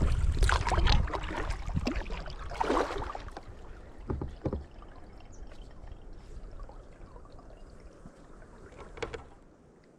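Kayak paddle strokes dipping and splashing in the lake water, irregular and growing fainter, with a last stroke near the end. A low wind rumble on the microphone over the first couple of seconds.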